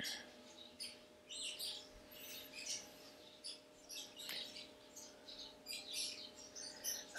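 Faint chirping of small birds: many short, high chirps overlapping at several a second, over a faint steady hum.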